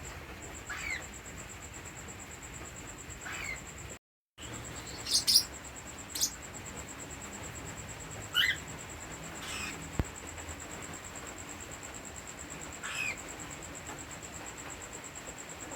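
Cockatiels giving short chirping calls, about seven separate chirps spaced a second or more apart. A sharp click comes about ten seconds in.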